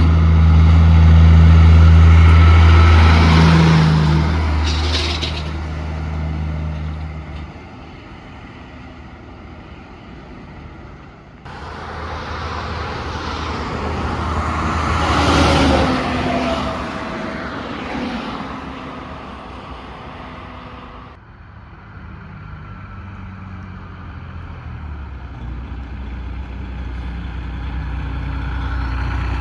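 Road vehicles passing one after another. The first is a truck with a deep engine drone that is loudest about two seconds in and then fades. A second vehicle passes about fifteen seconds in, its pitch dropping as it goes by, and a third grows louder near the end.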